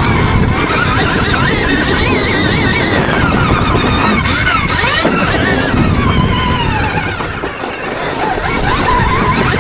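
Stark Varg electric motocross bike's motor whining, the pitch rising and falling with the throttle over a dense, rough low rumble. The sound dips briefly about seven to eight seconds in.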